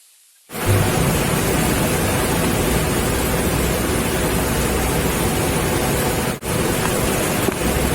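Small homemade engine, converted from a refrigerator compressor, running fast with a loud, steady, noisy sound. It starts abruptly about half a second in and drops out for an instant near the end.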